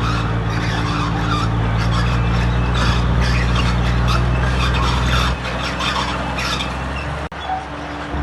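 Diesel engine of heavy earthmoving equipment running under load, with a steady clattering, scraping noise over it. The deep engine note drops off about five seconds in, and the sound breaks off for a moment near the end.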